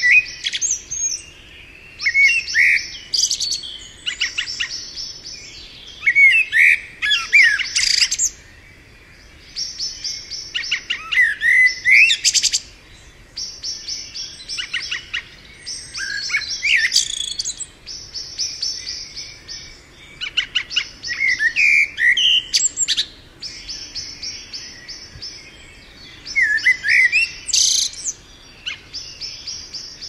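Birds chirping and singing: short loud phrases of quick rising and falling notes come every few seconds, with a rapid high trill running between them.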